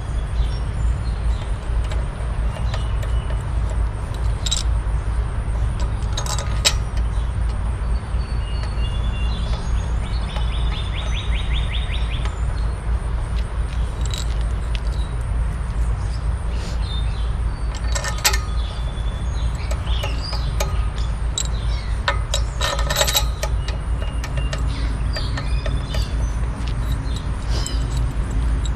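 Occasional metallic clicks and clinks, as of hand tools being handled on metal, over a steady low rumble, with birds chirping now and then. A quick run of ticks comes about ten seconds in, and clusters of clinks about eighteen and twenty-three seconds in.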